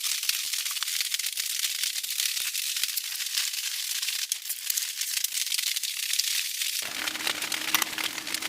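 A dense, fine patter of countless tiny ticks. About seven seconds in the sound changes and a low steady hum and rumble join it.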